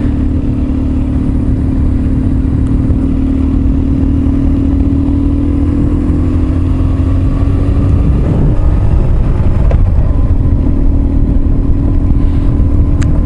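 Motorcycle engine running at a steady cruising speed, with wind and road noise. The engine note holds nearly level, easing a little about eight seconds in.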